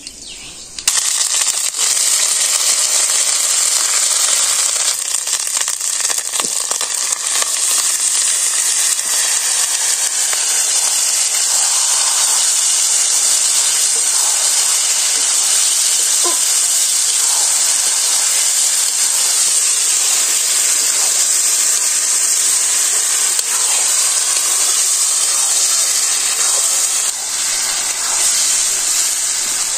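Potato and vegetable pieces sizzling loudly in hot oil in a wok, a steady hiss that starts suddenly about a second in, with the scrape of a metal spatula stirring them.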